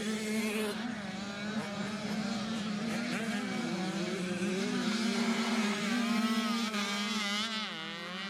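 Several motocross dirt bike engines revving together, their pitches wavering up and down over a steady drone.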